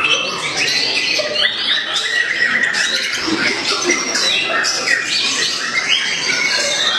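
White-rumped shama (murai batu) singing in a competition, a dense unbroken run of quick, varied chirps and whistled phrases.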